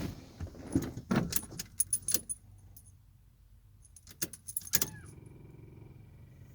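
Keys jangling and clicking, in two bursts, as the ignition key of a Nissan 720 pickup is handled. About five seconds in, a faint steady hum with a thin high whine comes on.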